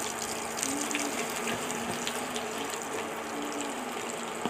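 Beaten egg and garlic sizzling in hot oil in a wok, a steady hiss, with a few light ticks from a wooden spatula stirring against the pan.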